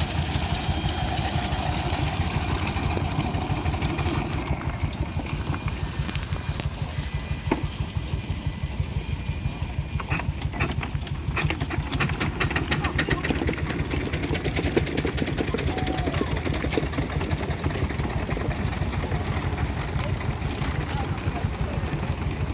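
An engine running steadily at idle with a fast, regular low beat, with some sharp clicks in the middle.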